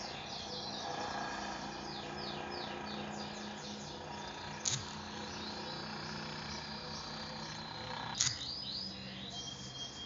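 Bird chirping in runs of quick falling chirps, one run about a third of the way in and another near the end, with a couple of short sharp clicks over a steady low hum.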